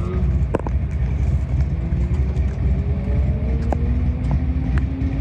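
A car engine running under a heavy low rumble, its pitch climbing slowly through the second half as it accelerates, with a few sharp clicks.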